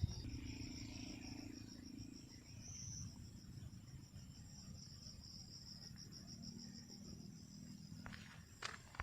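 Insects trilling steadily in a fast, high pulsing chirr, with a faint low hum at times and two brief rustling noises near the end.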